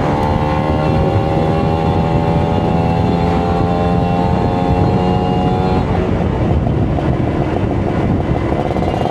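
Kawasaki Ninja RR 150 two-stroke single-cylinder engine running under way, its revs sinking slowly for about six seconds. It then drops out of the tone briefly before pulling again near the end.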